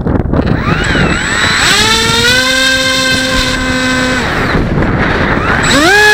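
Electric brushless motor and pusher propeller of a Bixler 1.1 RC plane throttling up to a steady whine, cutting back about four seconds in, then spinning up again to a louder, higher whine near the end.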